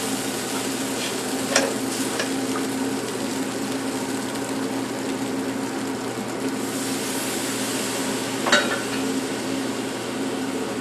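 Flour-and-fat roux sizzling in a frying pan as water is worked in and stirred to start a gravy, with a few clicks of the utensil against the pan. A steady low hum runs underneath.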